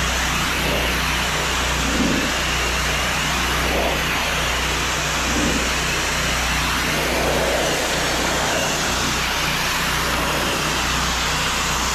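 Small engine of a soft-wash spraying rig running steadily, with the steady hiss of water spraying from a wand.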